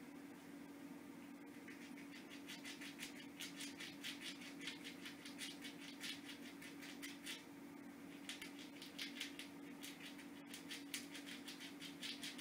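A squirrel gnawing at a hazelnut with its teeth: rapid runs of fine scraping clicks that start about a second and a half in, break off briefly past the middle, then resume, over a steady low hum.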